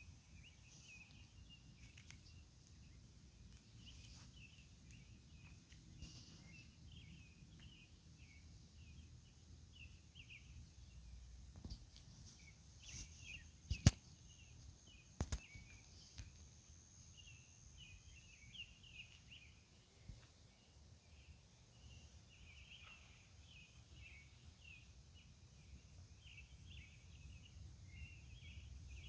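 Night-time outdoor ambience: many short insect chirps keep up an irregular chatter over a faint low rumble. Two sharp clicks come about halfway through.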